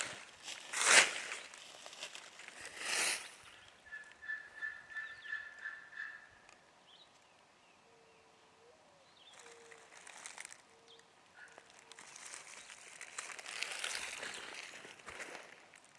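Dry forest-floor leaves crunching and rustling in short bursts as a hunter crawls, loudest about a second in. Faint bird calls come between the bursts, including a quick trill.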